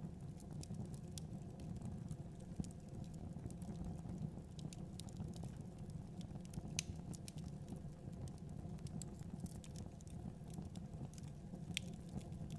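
Wood fire in a fireplace crackling: irregular sharp pops and snaps over a low steady rumble of the flames, with louder pops about seven seconds in and near the end.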